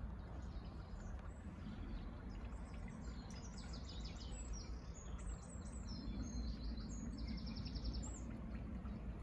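Small songbird singing: a run of high chirps from about three seconds in, ending in a fast trill near the end, over a steady low outdoor background rumble.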